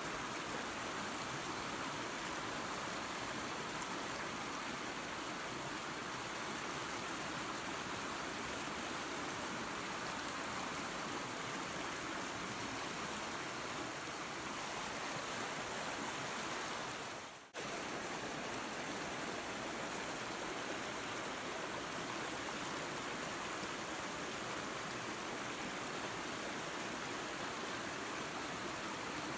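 Waterfall and creek water rushing in a steady, even wash of noise. About two-thirds of the way through it fades down briefly to a dropout, then cuts straight back in at full level.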